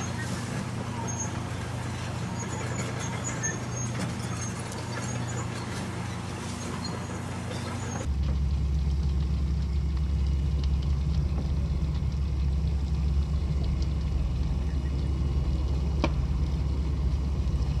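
Heavy diesel engine running steadily with a low rumble. About eight seconds in, the sound switches abruptly to a louder, deeper engine drone.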